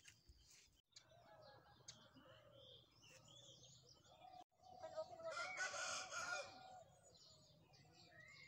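A bird call, one long call of about two seconds a little past the middle, over faint outdoor background sounds.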